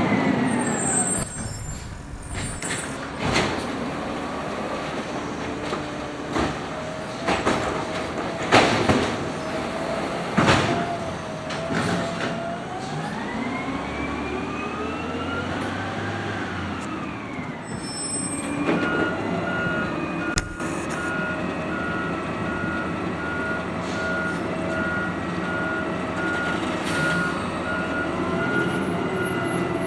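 Natural-gas garbage truck collecting with its arm worked at engine idle. Several sharp knocks come in the first half, then a rising-then-falling whine around the middle, and a steady run of quick beeps starts about two-thirds of the way in.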